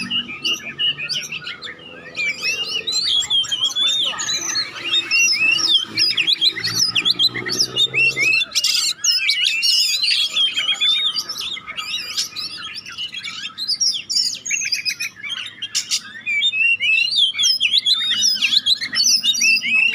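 Oriental magpie-robin singing a fast, unbroken stream of chirps, whistles and trills. This is the kind of frantic song used as a calling track to set a quiet magpie-robin singing.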